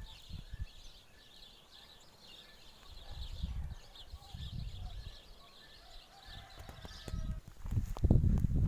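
Small birds chirping and twittering continuously, with faint thin whistled notes, over low rumbles that swell about three seconds in and again near the end.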